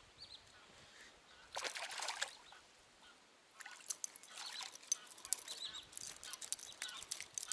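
Faint bird calls, many short quick notes in an irregular run starting about three and a half seconds in. A brief rustling noise comes near two seconds.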